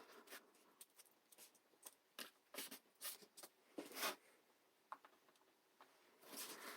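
Faint, scattered taps and rustles of cardboard pieces being handled and pressed together, with a steadier rubbing starting near the end.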